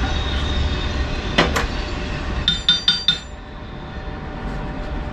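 Metal knocked on metal in the welding shop: two sharp knocks, then four quick ringing metallic clinks, over a steady low hum.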